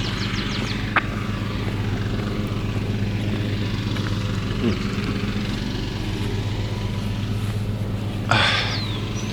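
A small engine idling steadily, an even low hum that holds without revving. A single short click about a second in.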